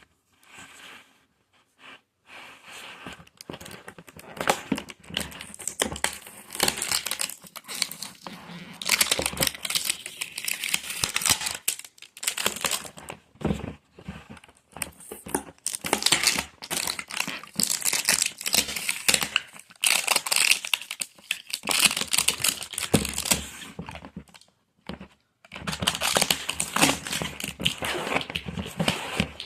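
Thin plastic packaging crinkling and tearing as it is handled and unwrapped, in irregular stretches with a couple of short pauses.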